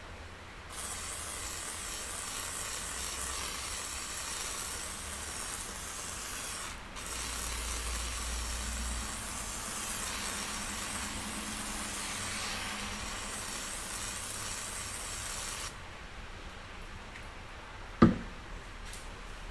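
Aluminum cylinder head of a 1981 Honda CB650 being rubbed back and forth on WD-40-wetted 80-grit sandpaper on a flat surface, hand-lapping the gasket face: a steady, gritty hiss that breaks off for a moment about seven seconds in and stops at about sixteen seconds. One sharp knock comes near the end.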